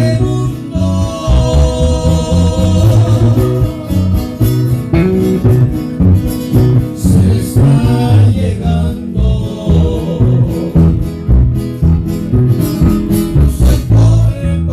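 Live Latin string-trio music: guitars and a bass guitar playing a song, with a voice singing.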